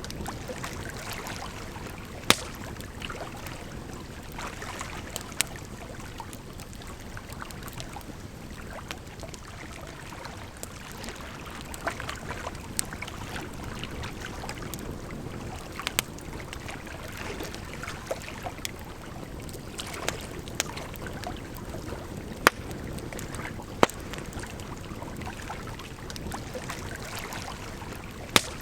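Campfire crackling, with sharp pops every few seconds, over a steady rush of flowing water.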